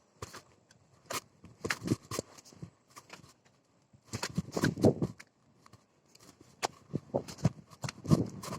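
Irregular crunching and clicking steps on rocky, gritty ground, coming in clusters with short quiet gaps; the busiest stretch is about four to five seconds in.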